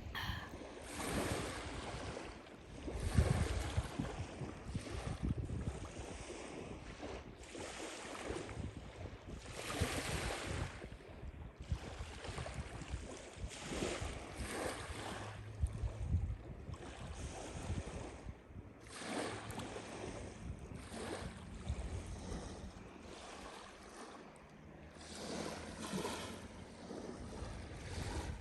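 Small Lake Superior waves washing onto the beach, one swash after another every second or two, with some wind on the microphone.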